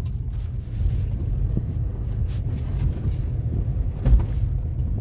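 Low, steady engine and tyre rumble inside a moving car, with a single thump about four seconds in.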